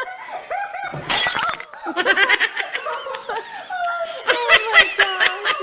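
A short, sharp crash-like burst about a second in, followed by people laughing in rapid repeated bursts.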